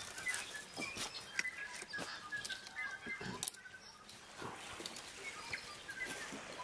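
Birds chirping in short, repeated high calls, with scattered light clicks and knocks.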